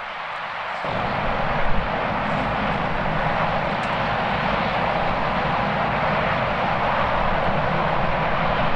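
Jet airliner engines, a steady rushing noise with a faint whine that slowly gets louder, with gusty wind rumbling on the microphone.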